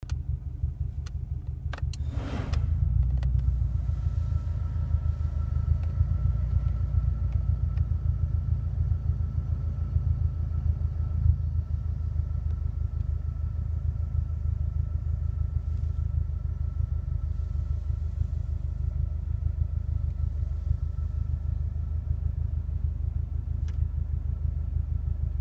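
Car air conditioning heard inside the cabin: a bubbling, hissing noise from behind the glove box that comes with the A/C compressor running, over a steady low hum of the engine and blower. About two seconds in there is a short rush of noise and the sound steps up, then holds steady with a faint high whine.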